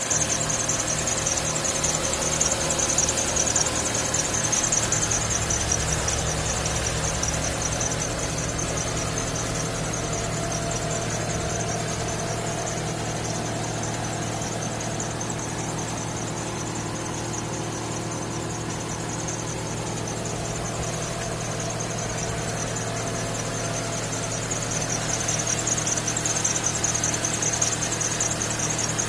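Electronic rat repeller giving a steady, high-pitched hiss-like buzz, louder at the start and again near the end, over a low steady hum.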